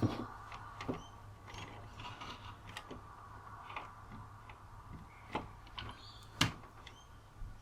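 Scattered light clicks and small knocks as a UPS is worked on and its old battery taken out, with the loudest knock about six and a half seconds in.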